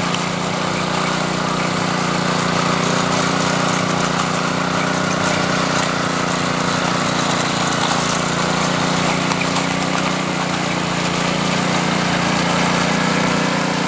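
Power trowel's engine running at a steady speed, a constant even drone with no change in pitch.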